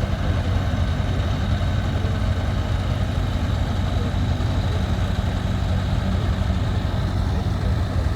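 Tractor engine running steadily at a low, even pitch, with no revving.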